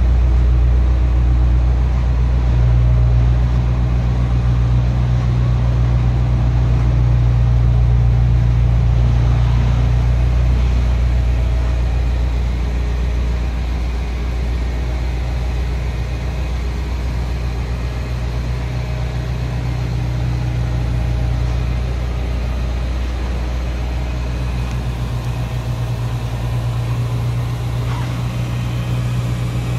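2013 BMW M5's twin-turbo V8 idling steadily with a deep, even low hum, easing slightly from about halfway on.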